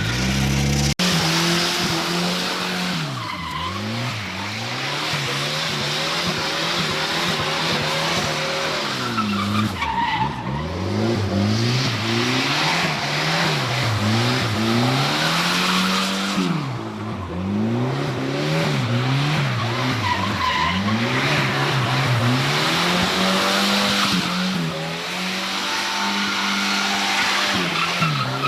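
A car drifting in circles: tyres squealing continuously while a droning note rises and falls every two to three seconds.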